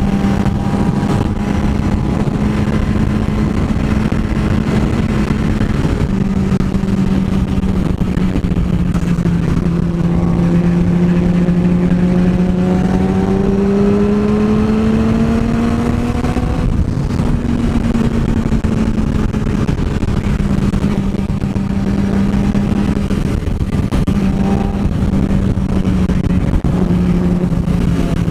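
Motorcycle engine running under way. Its note holds steady, climbs as the bike accelerates from about ten seconds in, then drops sharply near seventeen seconds with an upshift and settles again.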